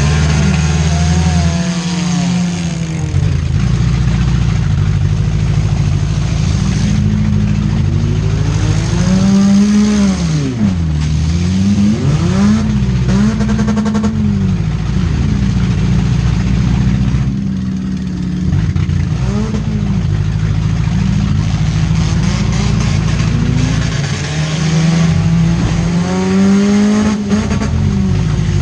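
Four-cylinder demolition derby car engines revving hard, their pitch climbing and dropping over and over as the cars drive and ram, over a steady low rumble.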